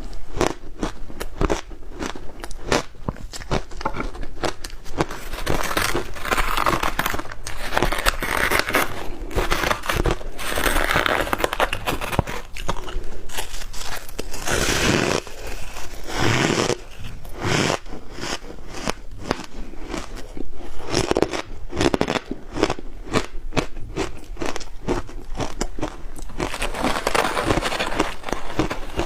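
Ice coated in matcha powder being bitten and chewed, a rapid, continuous run of sharp crunches and cracks as the ice breaks between the teeth.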